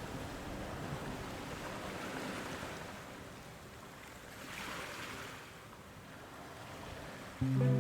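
Steady rushing road and wind noise of a car driving, rising and falling slightly. Near the end, music comes in suddenly with loud, steady notes.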